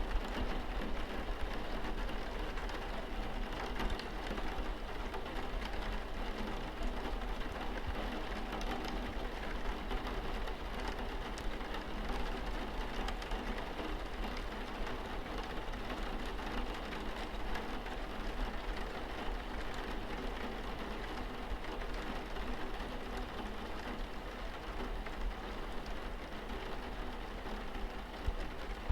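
Rain falling steadily on a car's windscreen, a dense even patter of drops on glass, with a low steady hum underneath.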